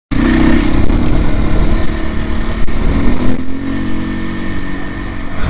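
Dirt bike engine running under throttle, its note dipping slightly about halfway through and then climbing again.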